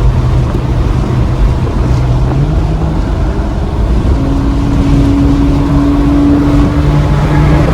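Porsche exhaust with the muffler deleted, the engine running loud under way; its note changes pitch and climbs higher about four seconds in.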